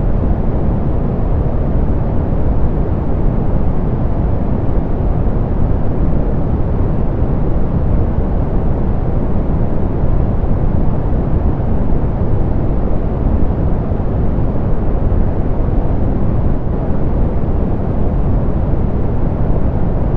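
Soft pink noise: a steady, even rush without pitch or change, heavy in the low end and with the treble rolled off.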